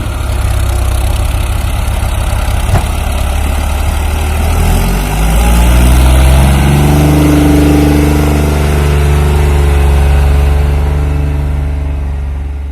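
Heavy diesel engine running, then revving up about five seconds in and held at higher revs under load. There is a single short knock near three seconds in, and the sound fades out near the end.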